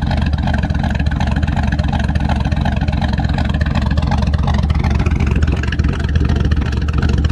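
GM LS V8 truck engine with a BTR Truck Norris camshaft idling in gear, breathing through stock exhaust manifolds with the muffler deleted. A steady, loud, choppy cam idle with even low pulses.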